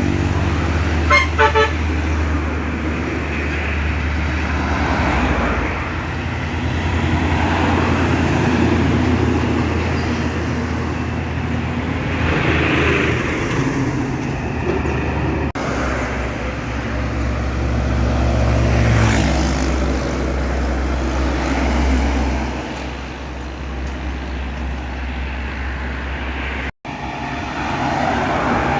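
Trucks passing on a busy road with diesel engines running, over steady traffic noise. There are a few short horn toots about a second in.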